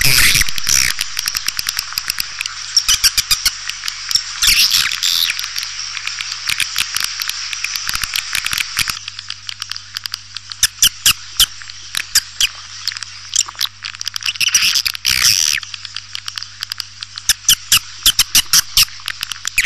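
Swiftlets twittering in a lure-call recording of the kind played to draw swiftlets into a nesting house. Rapid high chirps and clicks run densely throughout, swelling into thicker bursts of twittering every few seconds.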